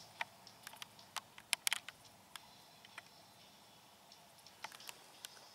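Quiet background with a dozen or so faint, sharp clicks and ticks at irregular intervals.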